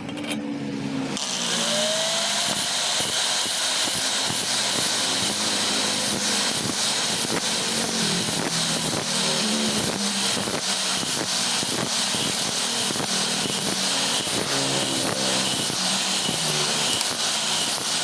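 Electric stone flour mill (atta chakki) running, a steady machine drone with a strong even hiss and fine rattling, the hiss coming up within the first second or two.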